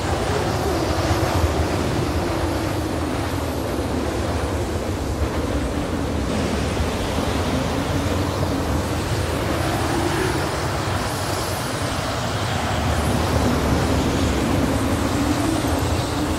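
Blizzard wind blowing steadily, a loud rushing with a low howl that slowly rises and falls.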